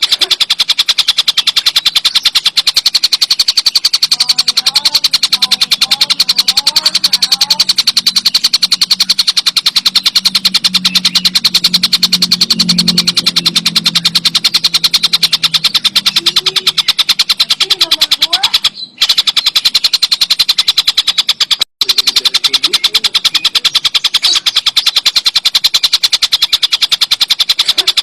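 Tengkek buto kingfisher giving a loud, continuous, very rapid rattling chatter of evenly repeated high notes, which breaks off briefly twice in the second half.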